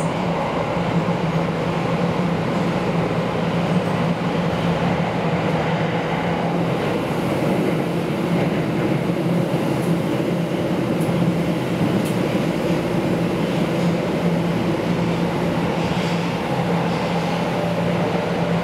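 Train running, heard from inside the passenger car: a steady rumble with a constant low hum.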